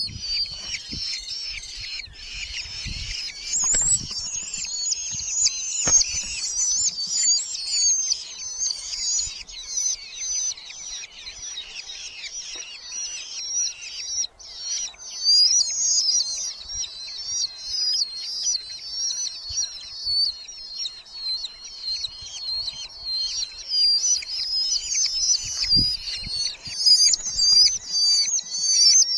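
Red-footed falcons calling without a break: many high, rapid, wavering chattering calls overlapping one another. There are a few low thumps in the first few seconds and again near the end.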